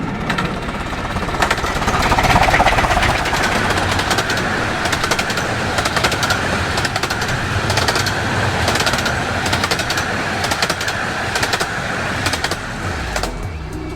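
Narrow-gauge steam train passing close by: a loud, continuous clatter with rapid clicking from the wheels, loudest about two seconds in.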